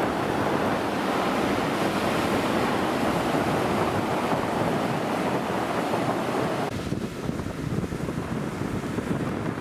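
Surf washing onto a beach, with wind buffeting the microphone in a steady rushing noise. The higher part of the rush drops off abruptly about two-thirds of the way through.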